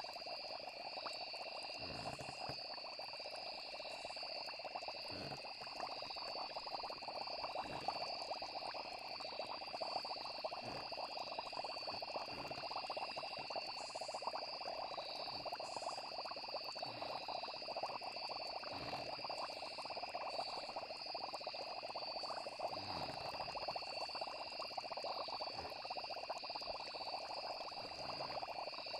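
Night nature ambience: steady insect trilling at two high pitches over a dense, crackling chorus lower down, with soft low pops every few seconds.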